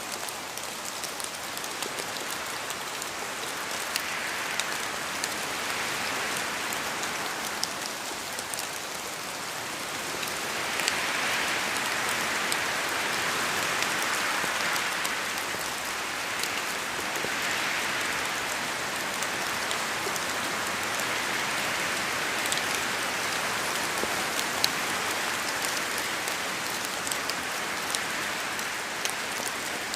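Steady rain falling in a forest, with many sharp drop strikes on leaves and the ground. The rush swells and eases every few seconds as wind gusts through the trees.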